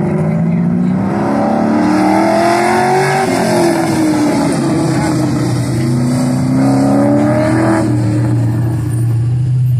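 Chevrolet Monte Carlo SS's V8 engine revving hard under acceleration. The pitch climbs twice, dropping back each time as the gear changes or the driver lifts.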